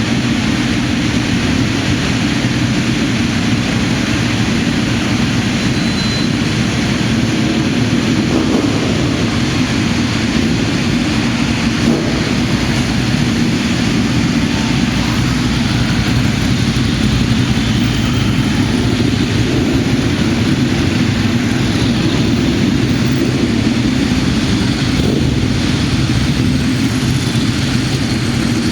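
An engine running steadily at constant speed, a continuous drone with an unchanging low hum.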